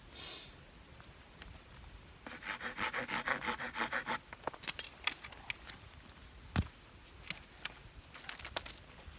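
Hand saw cutting firewood: a short run of quick rasping strokes, then a few sharp knocks of wood.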